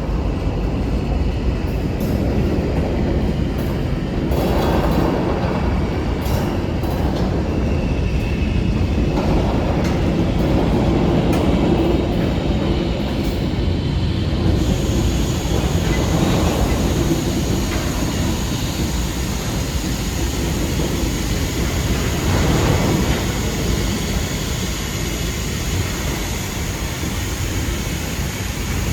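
Freight train led by a GP9U diesel locomotive moving along the track: a steady rumble of engine and rolling cars on the rails.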